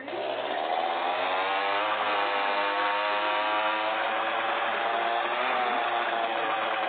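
Motorcycle engine running steadily, cutting in suddenly, its pitch sagging slightly in the first few seconds and then holding.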